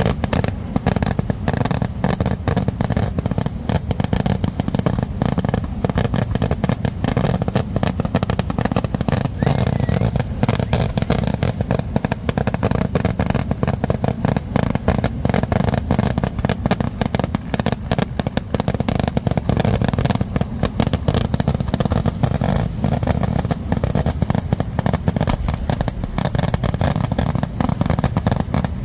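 Festival fireworks barrage: a dense, unbroken run of explosive bangs and cracks, so fast that they run together, with no pause.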